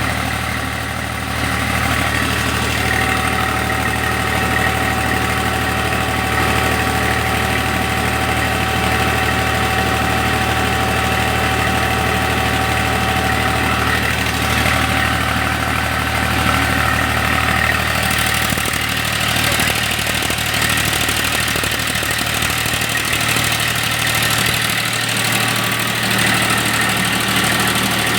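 Tractor-powered mobile rice mill running: a steady tractor engine drone under the continuous hum of the milling machinery, with a brighter, hissier edge from about two-thirds of the way through.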